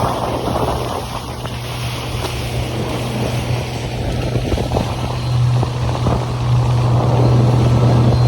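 A small motorboat's engine running steadily under way, its hum growing stronger in the second half, with water splashing against the hull and wind buffeting the microphone.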